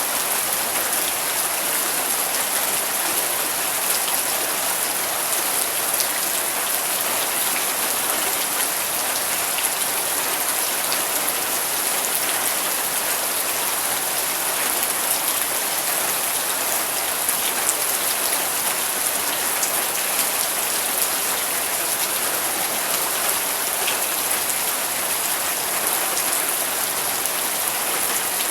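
Steady rain falling, an even hiss with many small drop ticks throughout and no change in intensity.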